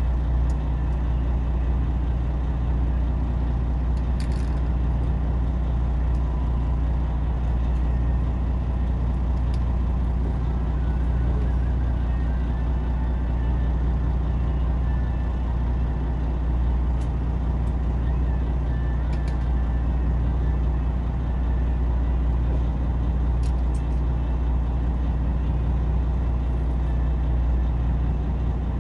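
A fishing boat's engine running steadily, a low even drone, with a few faint clicks here and there.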